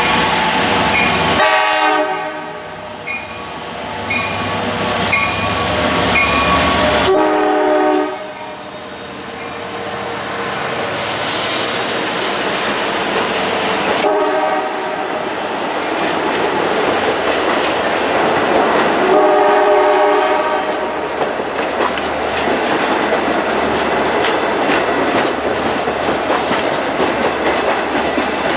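Long Island Rail Road diesel locomotive and bilevel coaches passing through the station. The horn sounds at the start, again about seven seconds in and again around nineteen seconds in, over a bell ringing steadily in the first seconds. The wheels clatter and rumble over the rails as the cars roll by.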